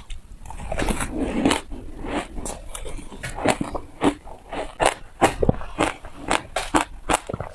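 Hard ice being bitten and crunched between the teeth: a quick, irregular run of sharp crunches, about two or three a second.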